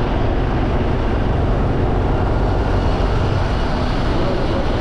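Steady noise of a motorbike on the move: the engine running and road and wind noise, with no sudden events.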